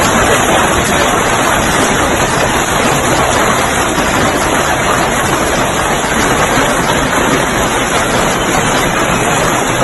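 Heavy storm downpour: a loud, steady roar of pouring rain.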